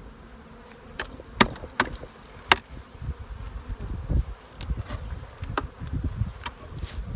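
Honey bees buzzing around an opened hive, with a series of sharp knocks from the wooden hive box being handled and lifted off. The loudest knock comes about two and a half seconds in.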